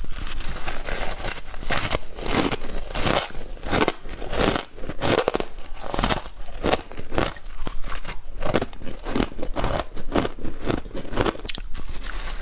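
Humidifier frost being bitten and chewed: an irregular, unbroken run of crisp crunches, several a second.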